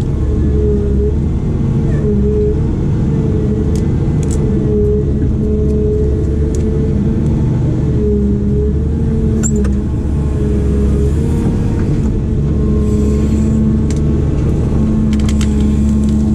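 Diesel engine of a heavy digging machine running steadily under load, with a constant low rumble and a whine that dips and rises slightly in pitch as the machine works. A few faint knocks come through over it.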